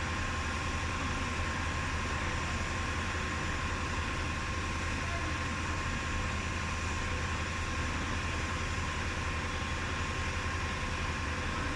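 Steady mechanical running noise: a low hum with a thin steady whine over it, unchanging throughout.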